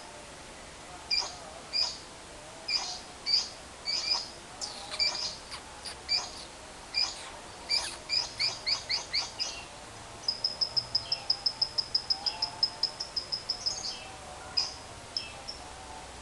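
Lovebird calling: a string of separate sharp chirps, then a fast rattling run of about six notes a second lasting some three seconds. This long chatter is the call keepers call 'ngekek panjang'.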